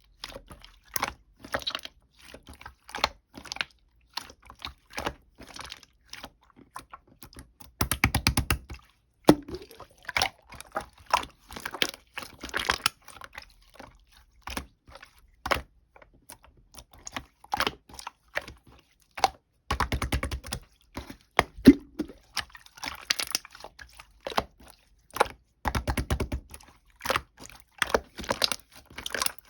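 Close-miked crunchy food being chewed: crisp crackling bites and chewing clicks, with three denser spells of rapid crunching.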